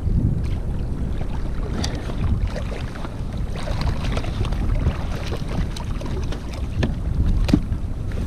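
Wind buffeting the microphone over water lapping and splashing against a kayak at sea, with a few light knocks scattered through.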